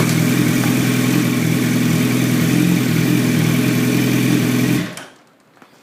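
2007 Yamaha YZF-R1's inline-four engine running at a steady pitch, then cutting off abruptly about five seconds in.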